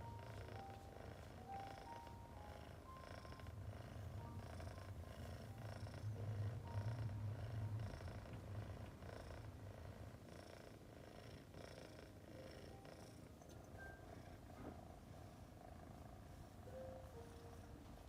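Domestic cat purring steadily: a low, pulsing rumble that swells louder about six seconds in, then eases off.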